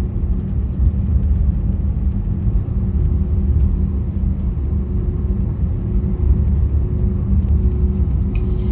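Airbus A320 cabin noise with the airliner on the ground after landing: a steady low rumble of the engines and rolling wheels, with a steady hum.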